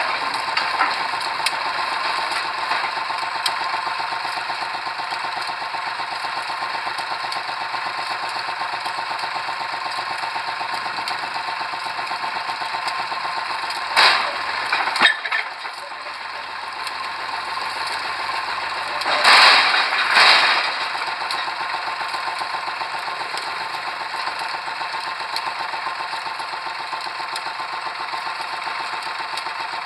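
Pile-driving machinery running steadily with a fast mechanical rattle. Louder noisy surges come briefly about midway and again about two-thirds of the way through.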